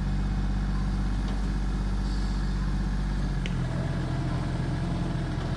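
Diesel tractor engine running steadily, its note changing about three and a half seconds in.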